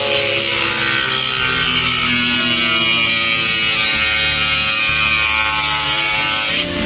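A power tool working metal: a steady hiss with whining tones, which stops abruptly near the end.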